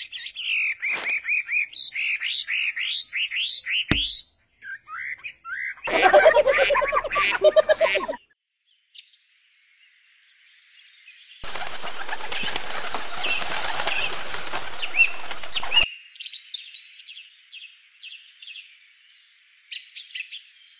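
Birdsong: a run of quick repeated chirps, a louder call about six seconds in, then a steady rush of flapping wings lasting about four seconds, followed by more scattered chirps.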